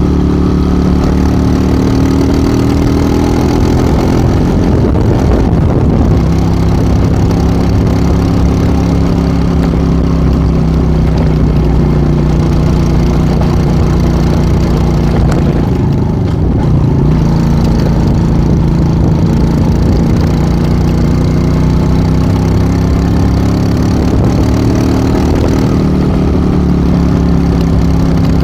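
Small enduro motorcycle's engine running steadily while ridden, its pitch slowly rising and falling with the throttle, with a brief dip about halfway through.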